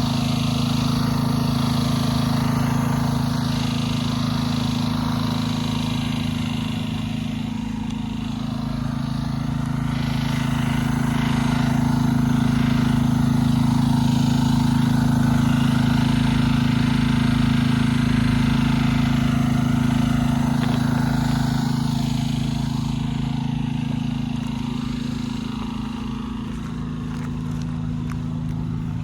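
A small engine running steadily at a constant speed, with a changing hiss over it that grows a little louder in the middle.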